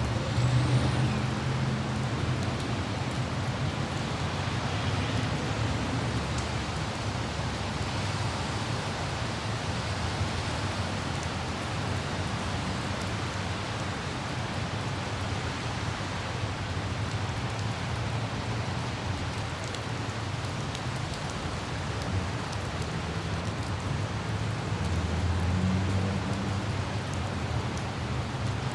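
Light rain falling as a steady hiss, over the low rumble of city traffic on wet roads; the rumble swells just as it begins and again about 25 seconds in, as vehicles pass.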